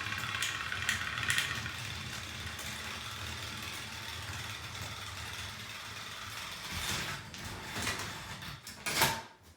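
Battery-powered toy train engines running flat out against each other, their small motors and gears whirring steadily. A few clicks and knocks come near the end.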